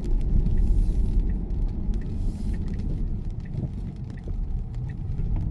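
Low, steady rumble of road and tyre noise heard inside a moving car's cabin at city speed.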